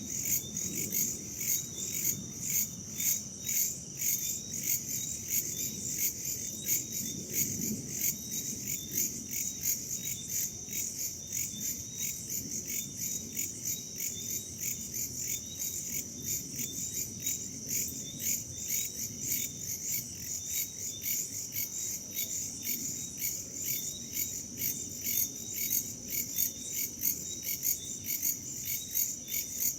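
Crickets chirping in an even, pulsing chorus, about three chirps a second, with a soft low rumble of wind beneath.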